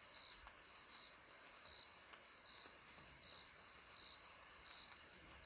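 Crickets chirping faintly, short high chirps repeating about three times a second, with a fainter, higher insect pulse above them.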